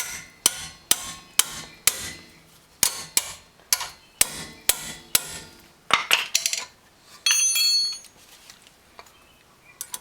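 A hammer tapping on the new rear brake parts: a series of about fifteen sharp strikes, each ringing briefly, about two a second, coming quicker near the end. Then a different, steady sound lasting under a second.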